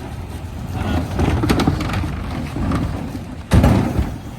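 Dennis Elite 6 refuse truck at work collecting recycling: its engine and machinery run with rattling and clattering, building up about a second in, and a loud sudden crash comes about three and a half seconds in.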